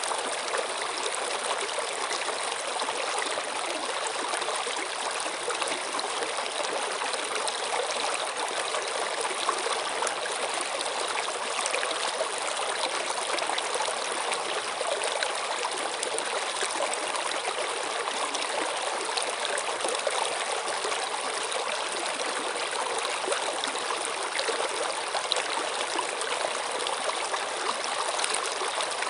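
Running stream water: a steady, even rush with a fine trickling, bubbling texture and no let-up.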